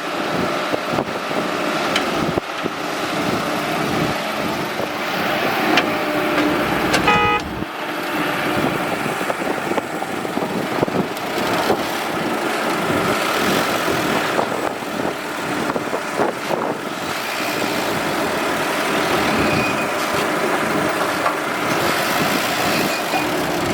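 Excavator engine running steadily under working noise, with scattered knocks. About seven seconds in there is a brief toot.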